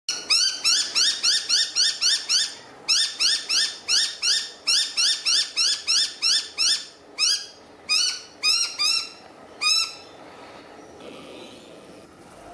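A bird calling a rapid series of loud, harsh, upswept notes, about four a second in runs with short breaks. The notes then come more slowly, one by one, and stop about ten seconds in.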